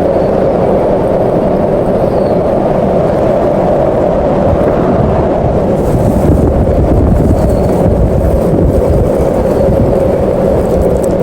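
Strong snowstorm wind blowing steadily and buffeting the microphone, gusting harder about six seconds in.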